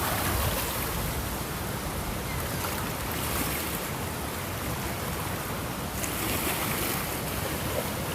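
Ocean waves washing onto the shore, a steady rushing hiss that swells and falls back about every three seconds.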